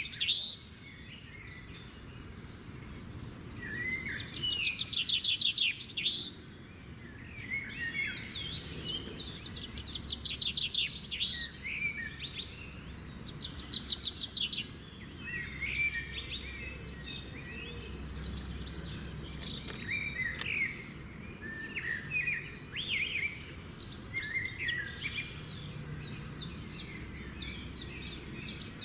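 Several small songbirds chirping and singing, with calls and trills overlapping almost without pause, over a faint low background rumble.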